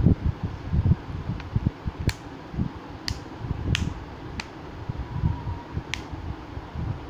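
Uneven low rumbling and rubbing handling noise, with about six sharp, separate clicks spread through it, the kind made by handling a phone and its box during an unboxing.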